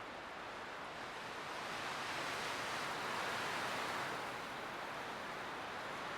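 Light wind blowing through pine trees, a steady rushing that swells to a gust in the middle and eases off again.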